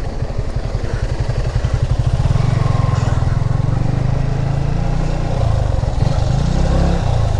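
Motorcycle engine running steadily while riding, its exhaust firing pulses the loudest sound.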